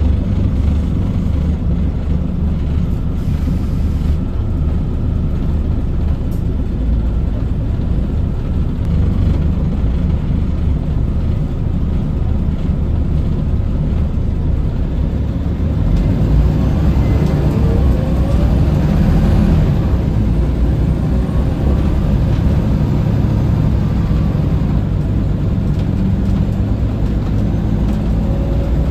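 Scania L94UB bus's diesel engine and drivetrain running under way, a steady low rumble with road noise; about two-thirds of the way through it swells a little, with a rising whine as the bus picks up speed.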